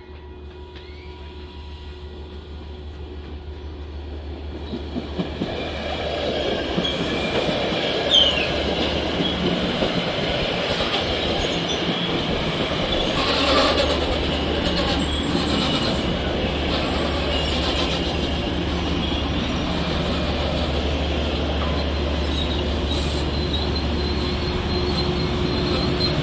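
A train approaching and running past close by, growing louder over the first six seconds and then holding a steady rumble of wheels on rail. A brief wheel squeal comes about eight seconds in.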